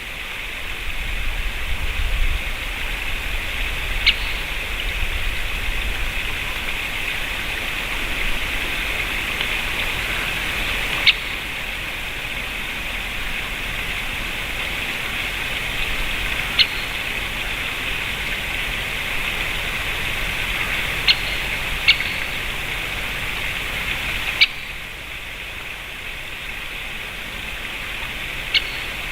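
Great spotted woodpecker giving short, sharp single 'kik' calls, about seven spaced a few seconds apart, over a steady rushing background noise with a low rumble.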